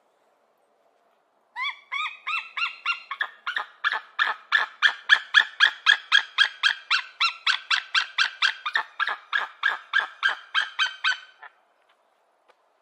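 Eagle calling: a long run of short, clipped high notes at about four a second, beginning about a second and a half in and lasting some ten seconds before stopping abruptly.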